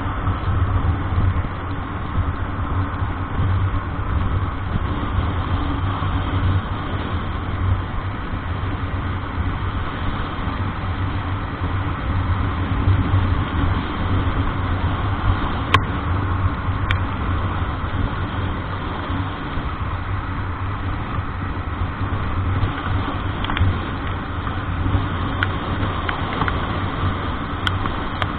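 Vehicle engine running steadily with a constant low hum and road noise while driving, with a few faint clicks in the second half.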